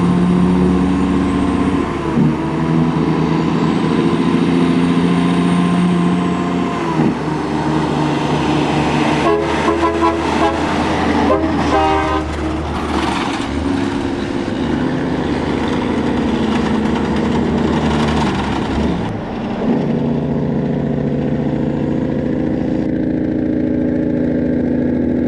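Peterbilt semi-truck's heavy diesel engine running under load. Its pitch drops and resets several times as it shifts through the gears, with a spell of rapid clattering about halfway through.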